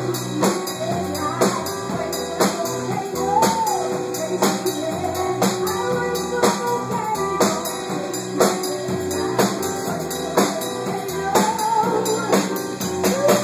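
A band playing live: a steady drum beat with tambourine and guitar, and a singer's voice gliding over it.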